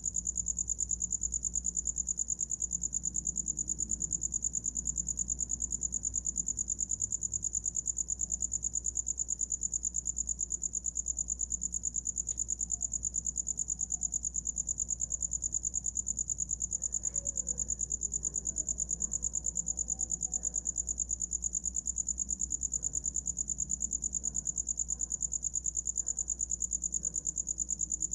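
A cricket singing: a continuous high-pitched trill held at one pitch, pulsing rapidly and evenly.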